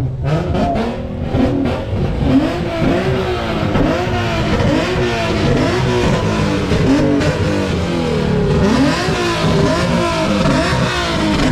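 A car engine revved hard again and again, its pitch rising and falling in quick repeated swells, with a few sharp crackles in the first couple of seconds.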